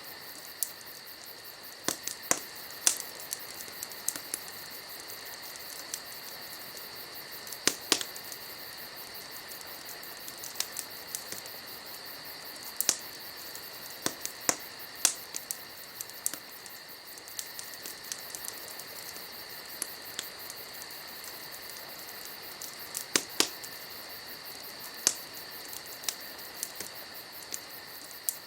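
Wood fire crackling, with irregular sharp pops, some coming in quick clusters, over a steady chirring of crickets.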